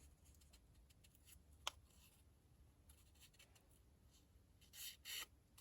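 Paper torn by hand in two short rips near the end, after a single light tap about one and a half seconds in; faint overall.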